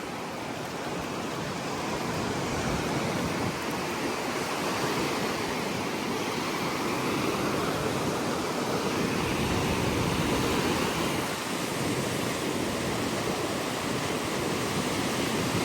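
Ocean surf rushing steadily, swelling and easing every few seconds.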